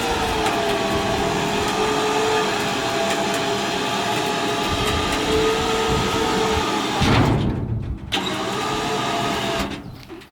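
A motor running with a steady whine, its pitch dipping slightly. It cuts out briefly about seven and a half seconds in, starts again, and drops away near the end.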